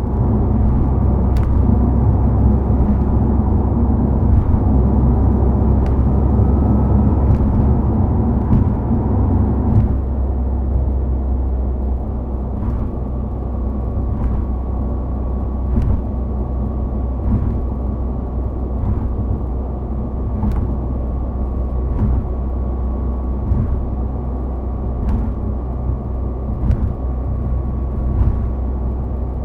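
Subaru WRX STI Spec C's turbocharged flat-four engine and aftermarket exhaust rumbling steadily under way, with tyre and road noise. The engine note eases about ten seconds in, and after that light ticks come at an even pace, about one every second and a half.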